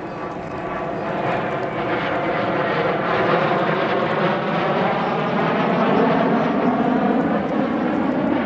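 Kawasaki T-4 jet trainers' turbofan engines passing overhead in flight. A loud rushing jet noise swells over the first second or so, then holds, with a slowly sweeping, wavering tone.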